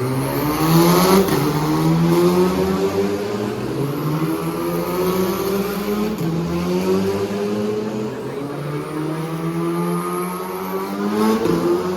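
Race car engines accelerating hard, the note climbing in pitch and dropping back at gear changes, once about a second in and again near the end.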